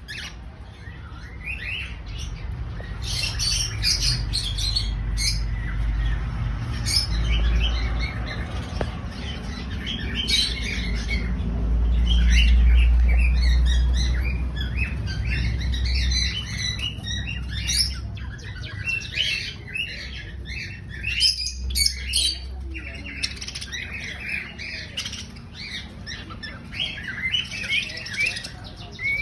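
Many pet birds squawking and chirping together in short, overlapping calls that grow busier in the second half, over a low rumble that is loudest around the middle.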